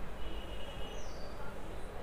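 Birds chirping in short, high, falling calls over a steady low hum, while a duster rubs softly across a whiteboard, wiping it clean.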